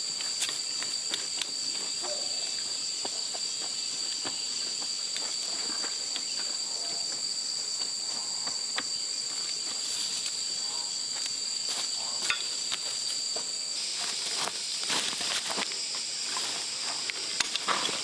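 Insects calling steadily at two high pitches, with scattered light clicks and rustles. About fourteen seconds in, the lower-pitched call stops and the clicking becomes busier.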